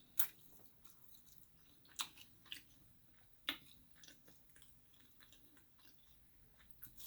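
A person eating close to the microphone: scattered wet mouth smacks and chewing clicks, a few of them sharper, spread out every second or so.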